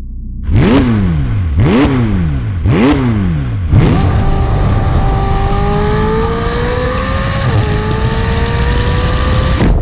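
McLaren 600LT's twin-turbo V8 blipped three times in quick succession through its top-exit exhausts, then pulling hard under acceleration, its pitch climbing, dropping once at an upshift and climbing again before cutting off suddenly.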